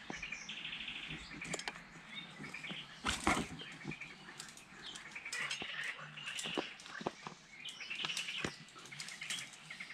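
Small birds chirping, with scattered sharp clicks and a single louder bump about three seconds in.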